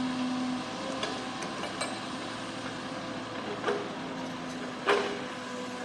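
Heavy diesel construction machinery running steadily as dump trucks are loaded with dirt, with two sharp knocks, the louder one near the end.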